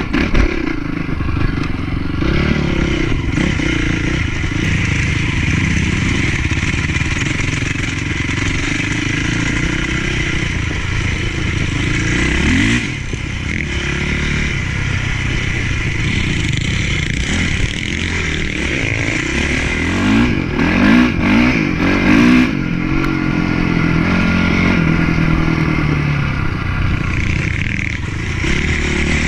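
Motocross bike engine running continuously under load, the pitch rising and falling as the throttle is opened and closed. It revs up sharply about 13 seconds in and again in a series of louder rises around 20 to 23 seconds.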